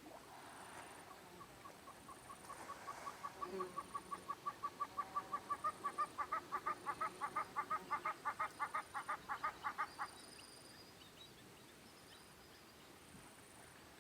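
An animal call: a long series of short, evenly repeated notes, several a second, that grows louder for about nine seconds and then stops abruptly. A faint high chirp repeats about once a second underneath.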